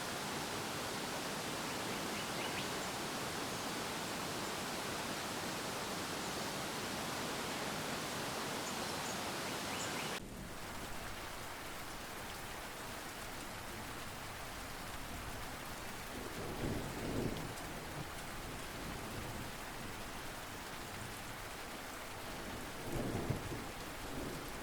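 A steady hiss of falling water, cutting abruptly about ten seconds in to rain falling in a thunderstorm, with two low rolls of thunder, the second near the end.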